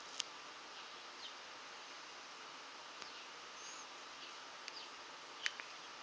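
Faint steady hiss with a handful of short, sharp high ticks scattered through it, the loudest about five and a half seconds in.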